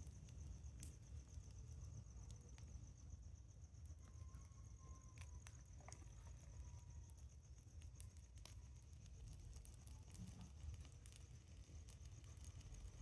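Campfire burning quietly, with sparse, irregular sharp crackles and pops from the wood, over a low rumble. A steady high pulsing chirr, like crickets, runs underneath.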